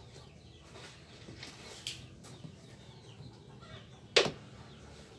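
A chicken clucking in the background, with one louder short sound about four seconds in.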